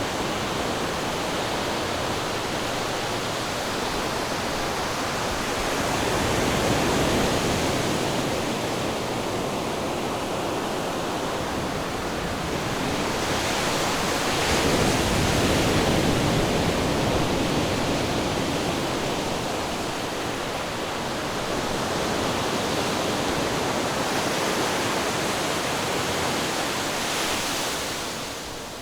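Ocean surf, waves breaking and washing in as a continuous rushing noise that swells every several seconds and dips briefly near the end.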